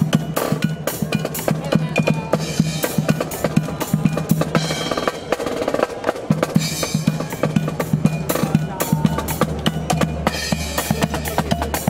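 Marching band playing, the drum line prominent: snare and bass drums keeping up a fast, busy rhythm over held low brass notes, with a deeper bass note coming in about nine seconds in.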